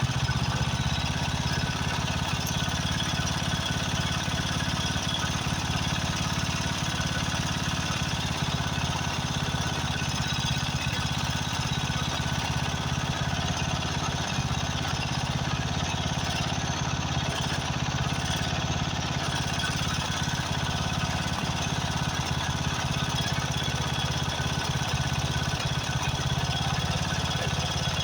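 Briggs and Stratton 13.5 hp overhead-valve engine on a Craftsman riding mower running steadily after a carburetor change. The owner hopes the way it runs is only a fuel mixture needing adjustment, though it could be a blown head gasket.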